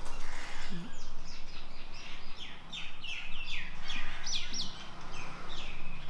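Small birds chirping: a quick run of short calls, about three a second, each dropping sharply in pitch, starting about a second in and stopping shortly before the end.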